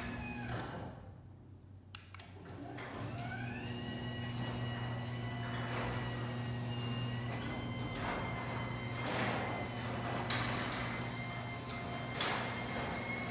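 Chamberlain B750C belt-drive DC garage door opener starting up and running as the door travels. Its whine rises smoothly as the motor soft-starts, then holds steady over a low hum, with recurring swells of rattling noise.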